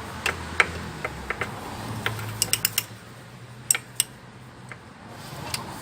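A 12 mm socket wrench clicking and knocking against metal as it is worked onto the gear-oil drain bolt of a GY6 150cc scooter, with irregular sharp clicks and a quick run of them about two and a half seconds in.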